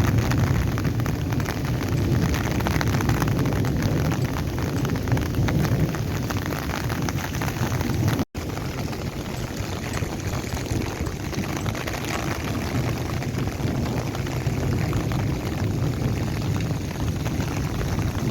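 Heavy stormy rain falling steadily, with wind rumbling on the microphone.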